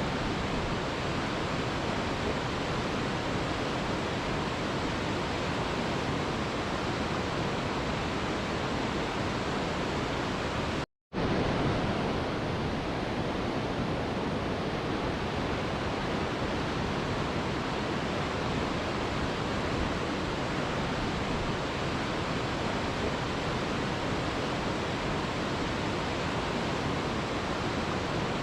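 Waterfall: a steady, even rush of falling water, cut once by a brief dropout to silence about eleven seconds in.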